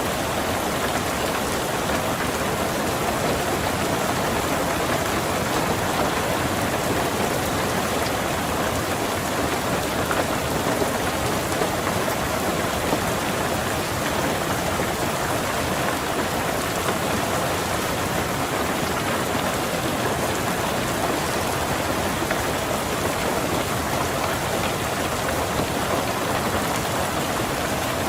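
Steady rain falling on a car's roof and windows, heard from inside the car, even and unbroken.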